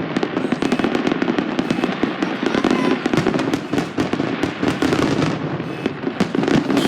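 Fireworks going off in quick succession: a dense, unbroken run of pops and crackles over a low rumble.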